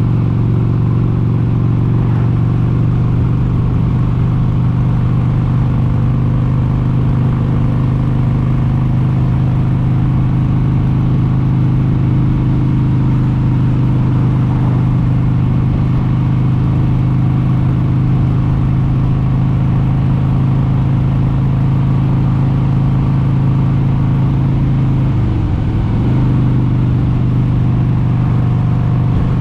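1996 Harley-Davidson XLH883 Sportster's air-cooled V-twin running steadily at cruising speed. Its note dips briefly and climbs back up near the end.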